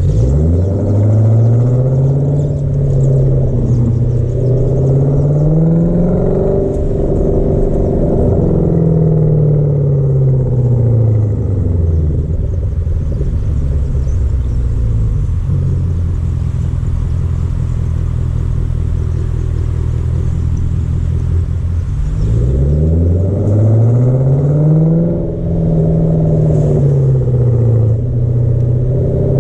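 Hyundai Genesis sedan V8 with a muffler-deleted exhaust, driving. The revs climb over the first six seconds and then fall away, the engine holds a steady drone for about ten seconds, then it revs up again about two-thirds of the way through, with a brief dip in loudness a few seconds later.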